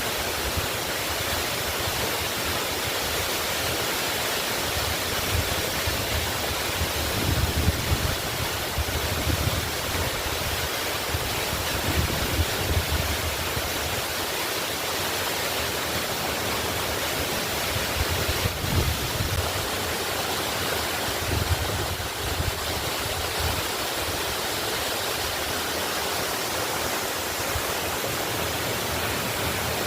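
Waterfall rushing steadily, an even hiss of falling water with a low rumble that swells and fades every few seconds.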